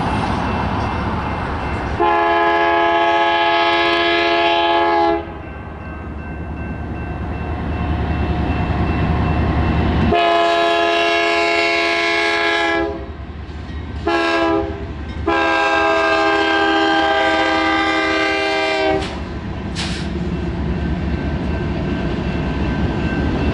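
Locomotive multi-chime air horn sounding two long blasts, one short and one long, the standard grade-crossing signal, over the low rumble of the passing train.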